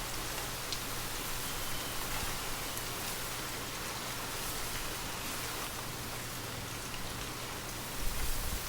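Gentle, steady rain falling, a fine even patter with a few faint drop ticks. Near the end a low gust of wind swells in.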